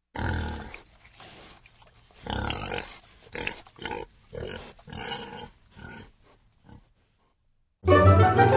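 Domestic pig grunting: a run of about a dozen short grunts, one after another, for the first six or seven seconds. Near the end a chiming jingle comes in.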